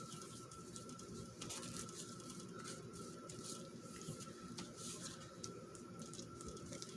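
Faint scattered taps and light rustles of paper pieces being handled and pressed down while gluing a paper cluster.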